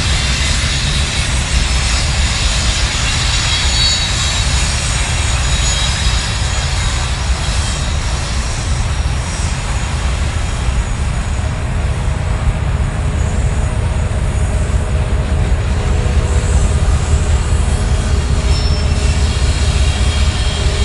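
Freight train rolling past close by: a steady, heavy rumble of cars on the rails, with thin, high wheel squeals in the first several seconds.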